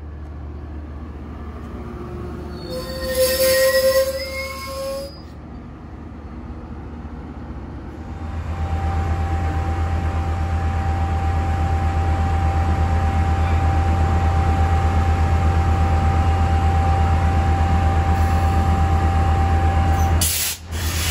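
A Metrolink passenger train rolls by with a low rumble and lets out a brief high metallic wheel squeal about three seconds in. After that, a diesel locomotive stands idling with a loud, steady low hum and a thin steady whine above it.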